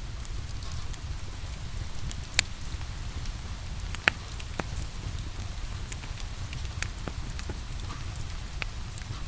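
Steady rain with the scattered sharp crackles and pops of a wood fire burning in a fireplace.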